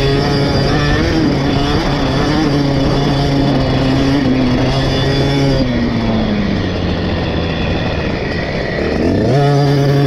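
KTM 50 SX two-stroke single-cylinder engine running at high revs, then revs falling off a little over halfway through as the throttle closes, and rising sharply again near the end as it is opened back up.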